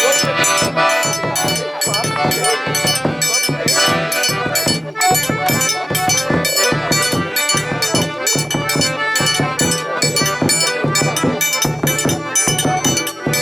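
Live forró pé-de-serra: an accordion playing over a steady beat of low zabumba drum thumps and quick, even metallic strokes of a triangle.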